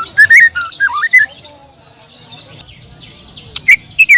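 White-rumped shamas (murai batu) singing in competition: loud, varied whistled phrases in the first second or so, a quieter stretch of faint chirping, then loud whistles again near the end, with high thin chirps over them.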